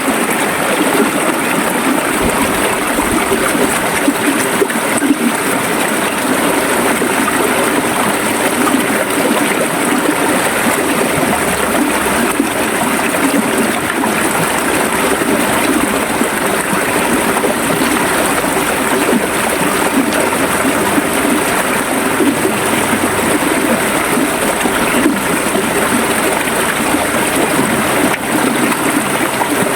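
Shallow river water flowing and gurgling steadily over stones, an even splashing rush.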